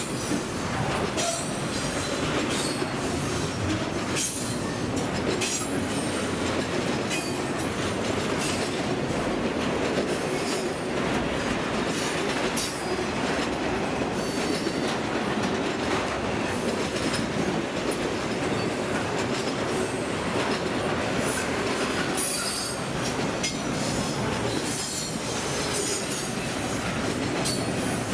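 Norfolk Southern intermodal freight train's cars rolling steadily past: a continuous rumble of steel wheels on rail with frequent clicks and clanks as wheels cross rail joints, and a thin high wheel squeal about halfway through.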